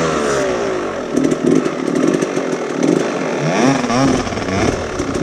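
Dirt bike engine revving loudly, its pitch dropping in the first moment and then rising and falling in blips a few seconds in.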